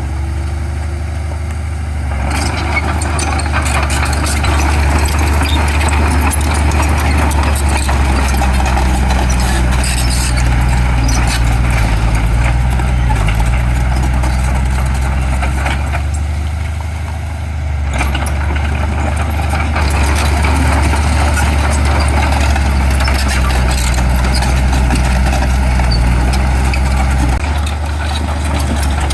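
Diesel engines of heavy earthmoving machinery running steadily with a deep drone, with a clattering rattle over it that eases off briefly near the start and again about two-thirds of the way through.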